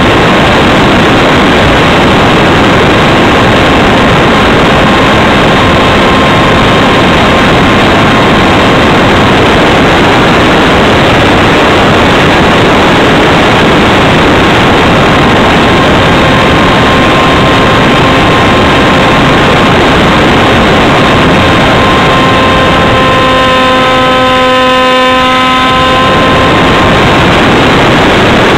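Loud wind rush on a wing-mounted camera riding a Radjet 800 RC plane in flight, with the steady whine of its electric motor and propeller underneath. About 23 seconds in the wind eases for a few seconds and the motor whine stands out clearly.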